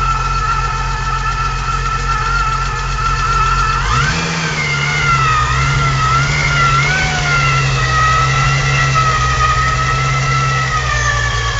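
Supercharged VW VR6 engine running, revved up suddenly about four seconds in and held at a raised, slightly wavering speed, then easing back down near the end. A high whine rises and falls with the revs.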